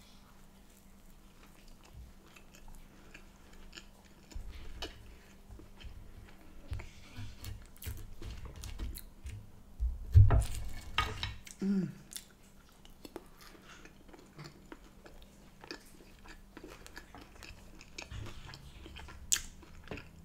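Close-miked chewing and biting of a crusty bread bun and crinkle-cut chips, with soft irregular mouth sounds and small clicks. About ten seconds in there is a louder knock as a fork goes into the plate, and shortly after it a brief hum.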